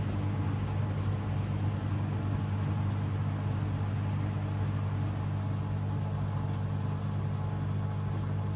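Hoover DXOA 610AHFN-80 washing machine running mid-cycle, giving a steady low motor hum. A few faint clicks come near the start and near the end.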